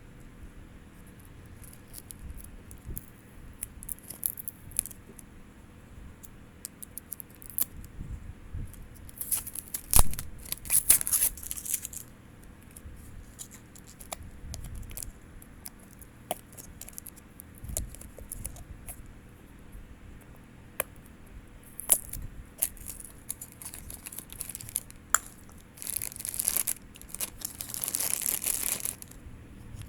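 Blind-box packaging being torn open and handled by hand: two longer tearing, crinkling spells, one around a third of the way in and one near the end, among scattered small clicks and taps.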